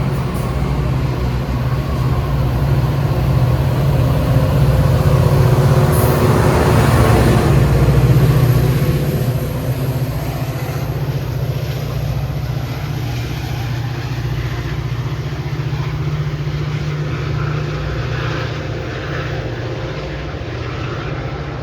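Diesel train running loud and steady, with a heavy low engine rumble that swells to its loudest about six to nine seconds in, then eases back to a steady drone.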